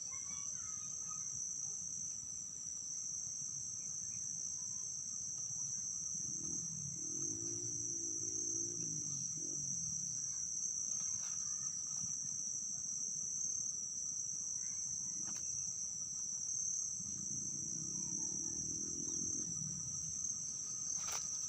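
Steady, high-pitched chorus of insects shrilling without a break. Underneath, a low wavering hum swells twice, about a third of the way in and again near the end.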